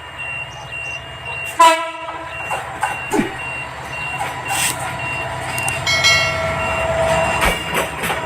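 Diesel locomotive of a goods train running with a steady low rumble, while a high electronic beep repeats about twice a second. A short, very loud horn-like blast comes about one and a half seconds in, and a longer pitched tone comes near the end.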